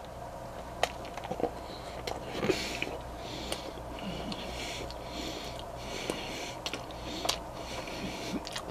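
A man chewing a bite of hot dog in a bun, breathing through his nose about once a second, with scattered small mouth clicks.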